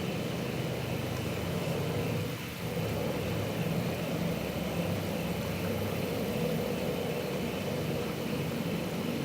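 A steady low droning rumble with a held mid-pitched tone over it, dipping briefly about two and a half seconds in: the unexplained, roar-like 'strange sound' heard in the night.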